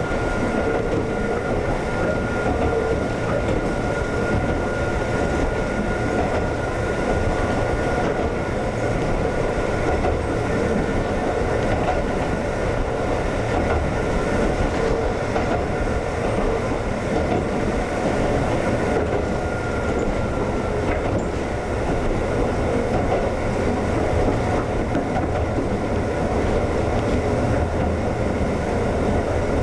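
Konan Railway 7000-series (ex-Tokyu 7000) electric train running on the line, heard from inside the car: a steady rumble of wheels on rails, with a faint high whine that fades out about twenty seconds in.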